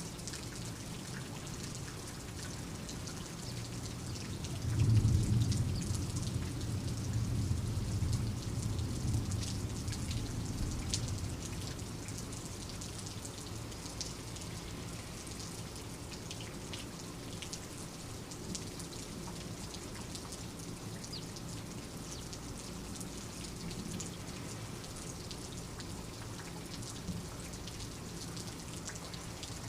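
Steady rain with scattered drops pattering. About five seconds in, a low rumble of thunder swells suddenly and fades out over the next six seconds or so.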